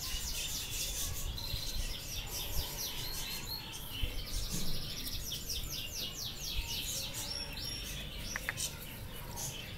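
Small birds chirping in quick runs of high, repeated notes, over a low background rumble. A couple of light clicks near the end.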